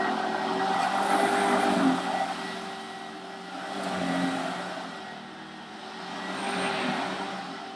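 Hoover WindTunnel bagged upright vacuum cleaner running, a steady motor whine over a rush of air that grows louder and quieter every two or three seconds.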